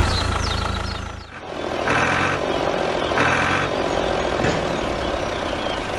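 Small engine of a DIY mini tractor running, then cutting out about a second in. Two short beeps follow, and the engine picks up again near the end.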